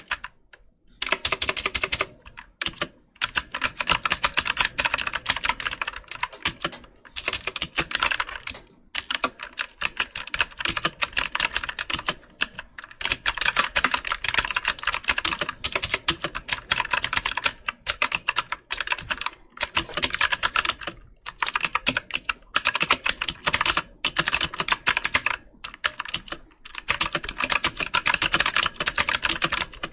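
Computer keyboard being typed on in steady runs of rapid key clicks, broken by short pauses of under a second every few seconds.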